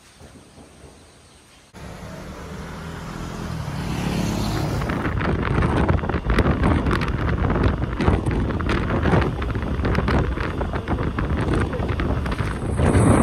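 Wind buffeting the microphone on a moving two-wheeler, with the road and engine noise under it. It cuts in suddenly about two seconds in and grows louder over the next few seconds as the bike gathers speed.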